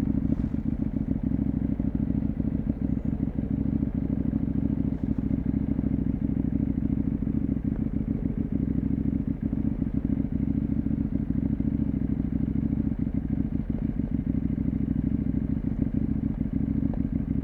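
CFMoto 800MT's parallel-twin engine and exhaust running steadily under way, picked up muffled by a mic in the rider's trouser pocket. The sound is low and dense, with no big rise or fall in revs.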